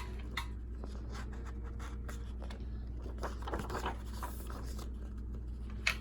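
Paper pages of a picture book being turned and handled: soft rustling, loudest a little past halfway, with a light click near the start and another near the end, over a steady low hum.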